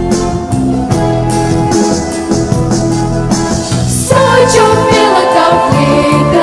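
Pop song played over a backing track with a steady beat and bass. A singing voice comes in about four seconds in, over the accompaniment.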